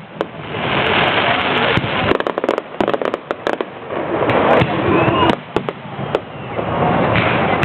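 Fireworks display: many quick sharp bangs and pops over long swells of dense crackling that build and fade.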